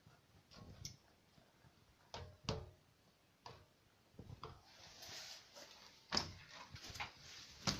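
A few scattered light knocks and clicks, with a soft rustle about five seconds in.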